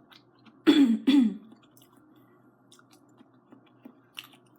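A woman coughs twice, about half a second apart, near the start, then chews quietly with small wet mouth clicks.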